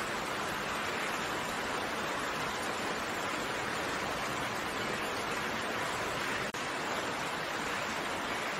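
Steady rainfall, an even hiss of raindrops with no distinct drops or thunder standing out. The sound drops out for a split second about six and a half seconds in.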